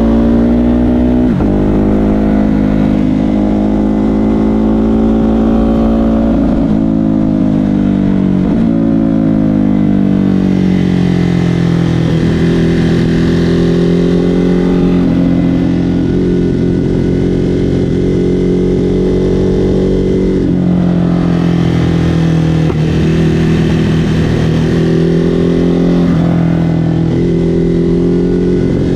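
Ducati Hypermotard 950 SP's twin-cylinder engine through an SC Project exhaust, ridden on the open road. The pitch climbs and drops over and over with brief breaks at the gear changes, and there is a longer fall in revs about a third of the way through.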